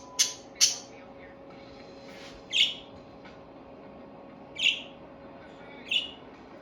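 Pet budgerigars chirping: two sharp chirps in the first second, then three single calls spread over the next few seconds.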